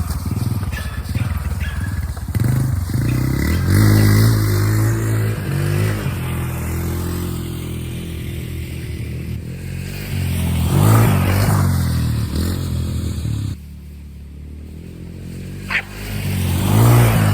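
Off-road vehicle engine running and revving up in several rising swells. It drops suddenly to a lower, quieter running about two-thirds of the way in, then revs up again near the end.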